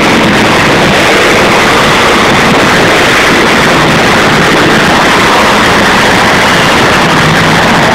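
Monster truck engines running loud, a steady, dense wall of engine noise with no let-up.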